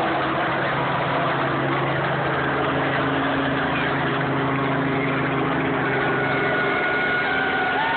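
Helicopter running steadily: a constant engine hum under a dense, even noise, with a thin higher tone joining about six seconds in.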